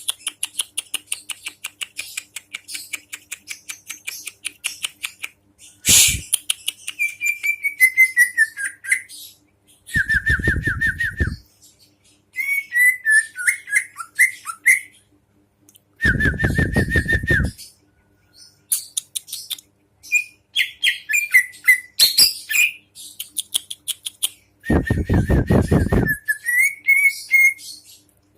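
A songbird singing a long, varied song. It opens with a rapid run of chips, then gives gliding whistled phrases and several loud, harsh rattling bursts.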